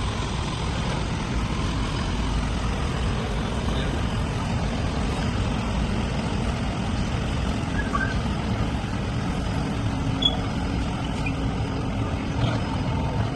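Vehicle engine running steadily, a low even rumble, with a few faint short chirps over it.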